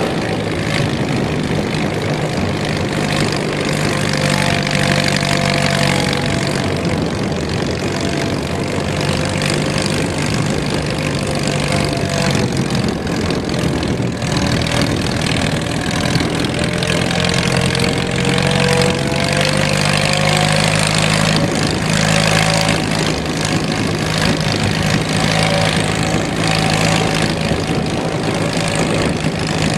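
1926 Fordson tractor's four-cylinder kerosene engine running steadily under load while pulling two 14-inch plows through heavy wet clay. Over the engine note come higher tones that drift in pitch: the growl of the worm-drive transmission, normal for a Fordson.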